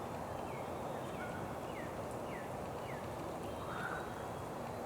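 Steady outdoor background noise, with a small bird giving five short, falling chirps a little over half a second apart during the first three seconds.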